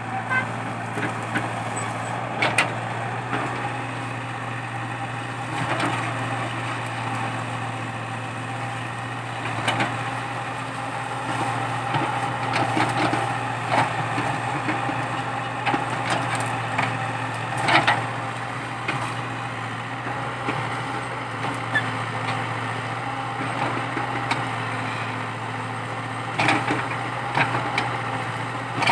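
Komatsu PC80 excavator's diesel engine running steadily, with sharp cracks and knocks every few seconds as eucalyptus stumps and roots are broken out.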